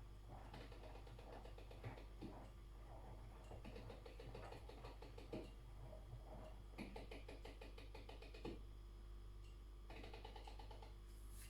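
Miele front-loading washing machine in its wash phase, heard faintly: the drum turns in stretches of a second or more, wet laundry tumbling and water sloshing, with short pauses between turns. A low steady hum runs underneath.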